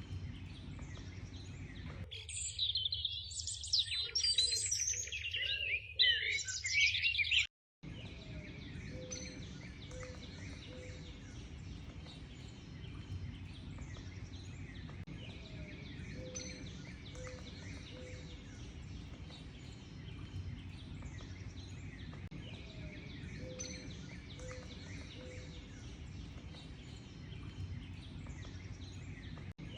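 Wild birdsong. For about five seconds a close bird sings a rapid, loud song of many quick high notes, which cuts off abruptly. A quieter chorus of distant chirping follows, with a low three-note call repeating every several seconds.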